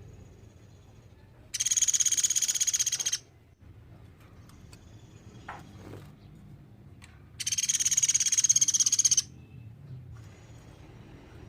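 Common flameback woodpecker (platuk beras) giving two long, fast, high rattling trills, each about a second and a half, about six seconds apart.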